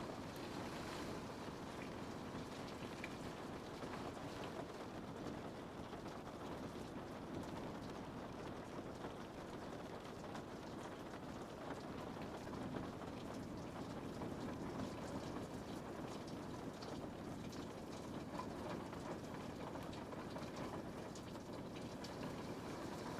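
Steady rain pattering on a window pane, an even hiss with many small drop ticks.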